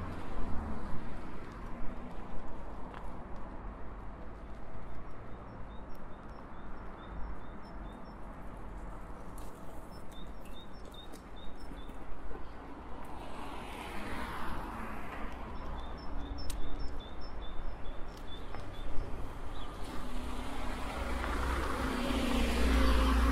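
Outdoor street ambience heard from a bicycle: a bird repeats short high notes in runs of a few seconds over a steady low rumble. A car passes about halfway through, and another vehicle with an engine hum approaches and grows louder near the end.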